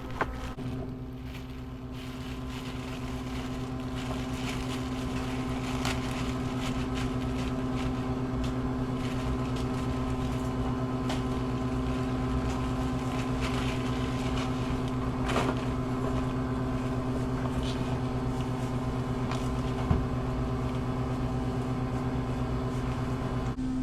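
International tractor's engine running steadily under load while pulling a mowing machine through the field, growing a little louder over the first few seconds.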